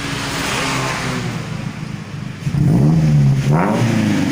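Toyota Avanza exhaust, fitted with a 4-1 header, resonator and HKS tip, running at idle, then revved twice from a little past halfway, the pitch rising and falling with each blip as it gets louder.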